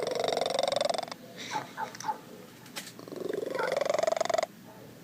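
A cat making a loud, rattling, purr-like call twice, each over a second long and rising a little in pitch, with a few short chirps in between.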